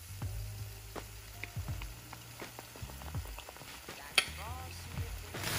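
Pancake-batter-coated Oreo deep-frying in hot oil: a steady bubbling sizzle with scattered crackles and one sharp pop about four seconds in.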